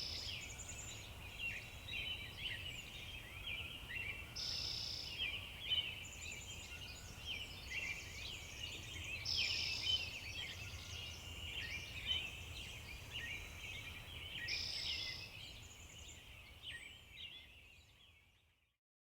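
A chorus of many small birds chirping over a steady low rumble, with a brighter, higher call coming about every five seconds. It fades out near the end.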